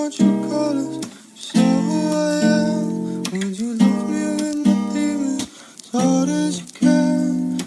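Music: acoustic guitar playing sustained chords in phrases, with brief breaks between them.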